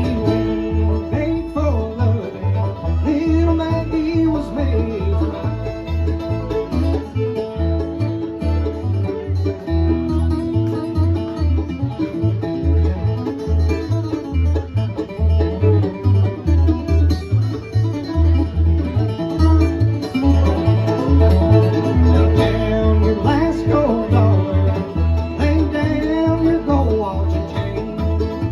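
Acoustic bluegrass string band playing an instrumental stretch: plucked banjo, guitar and mandolin over a steady pulsing bass line.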